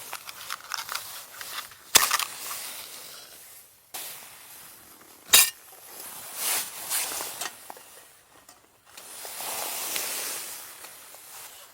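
Scattered clicks, clinks and rustling of things being handled, with two sharp knocks about two and five seconds in.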